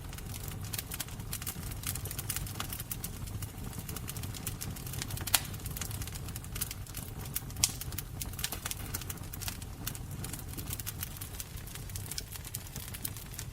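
Wood fire crackling: a steady low rumble of flames under a constant run of small pops and snaps, with two sharper pops about five and seven and a half seconds in.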